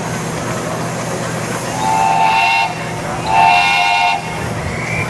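A miniature railway locomotive's whistle sounding two short blasts, each a chord of several close notes, the second a little longer and louder than the first.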